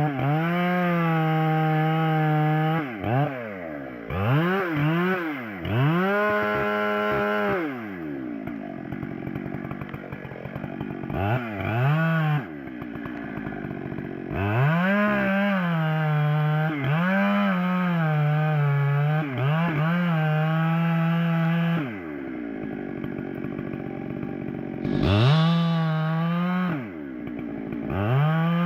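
Chainsaw cutting wood: the engine revs up to full throttle and holds there for several seconds at a stretch, drops back, and revs up again many times as the cuts are made.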